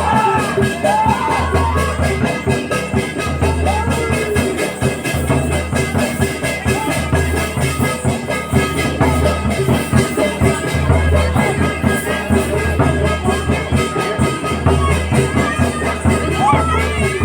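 Live folk percussion with a fast steady beat, drums and ringing struck metal, the kind of music that accompanies a Gavri dance-drama. Voices call out briefly about a second in and again near the end.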